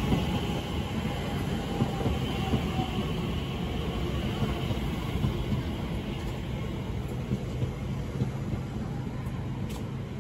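Electric multiple-unit passenger train passing the platform at speed: a steady rumble of wheels on rail, with a faint high whine over the first few seconds. The sound eases slowly toward the end, with a few sharp clicks near the end.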